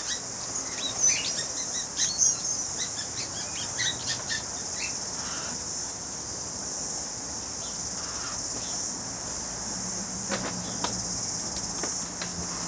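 Steady high-pitched drone of cicadas, with short bird chirps during the first few seconds and a few light clicks.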